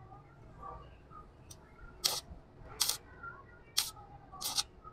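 Four short, sharp clacks, spaced roughly a second apart.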